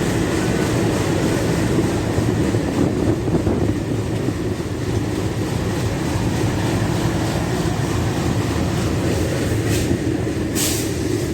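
Passenger train running on the rails: a steady rumble with two short hisses near the end.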